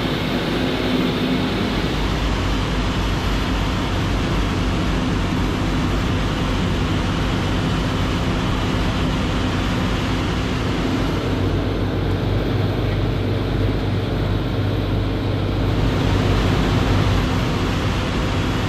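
Jet boat's engines and jet pumps running hard and steady under heavy load, straining to push the boat up on plane while towing a sunken, water-filled boat; a constant drone with rushing water and wind noise.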